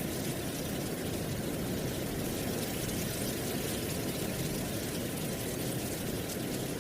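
Steady wind blowing through dry autumn leaves: a low, even rumble under a constant rustling of leaves.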